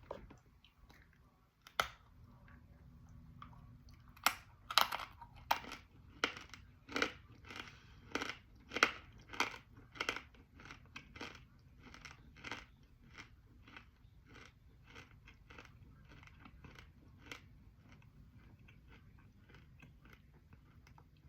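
Dry edible clay being bitten and chewed close to the microphone: a sharp snap about two seconds in, then loud crunching at a steady chewing pace, softer toward the end as the clay breaks down.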